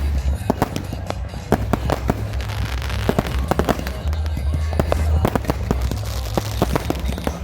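Fireworks and firecrackers going off: many sharp bangs and pops at irregular, rapid intervals, over music with a heavy bass beat.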